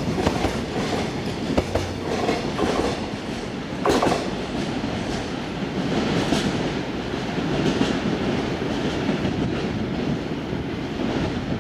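Container freight train wagons rolling along the track, wheels clacking over rail joints over a steady rumble, with a brief louder knock about four seconds in.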